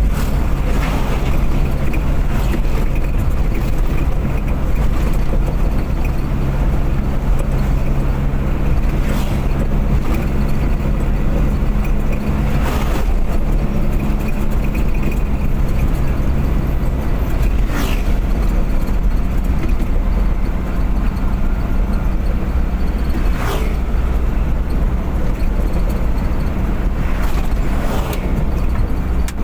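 A car being driven on the open road: steady engine drone and road rumble. There are several brief whooshes, and the engine's steady note fades a little past halfway.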